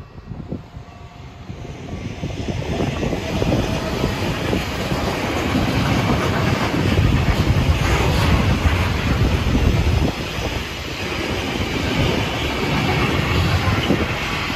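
A train approaching and passing, its noise swelling over the first few seconds and then staying loud, with a steady rumble of wheels on the rails and a rapid clatter of wheel clicks.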